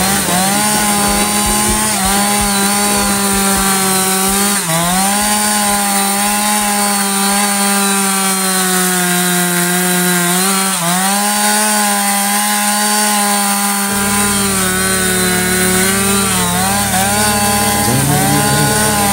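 Ogawa Pro VX8224 petrol chainsaw running at high throttle while cutting into a large tree stump. The engine note stays steady and high, dipping briefly twice as the chain loads up in the wood.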